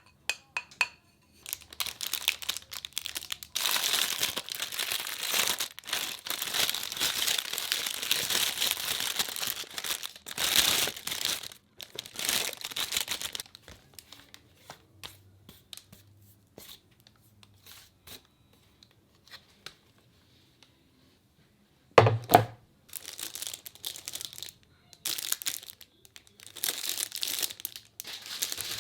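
Plastic packaging being handled, crinkling and crackling in bursts, with a single sharp knock about two-thirds of the way through as something is set down.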